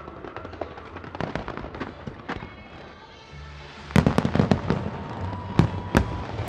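Fireworks going off: a steady stream of small crackling pops, then about four seconds in a louder volley of bangs, with two sharp single bangs near the end.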